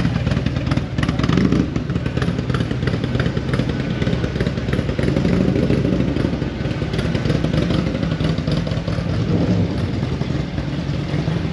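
Vehicle engine running steadily at a low rumble, without revving up, as a show car drives out.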